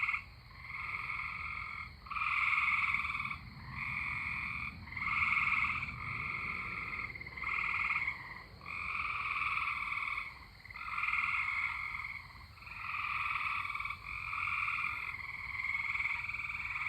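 A chorus of tree frogs calling in unison: long trilled calls, one about every second and a half, with short breaks between them.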